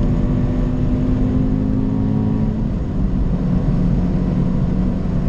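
A car's engine running hard at track speed, heard from inside the cabin over road and tyre rumble. About halfway through, the engine note drops a little.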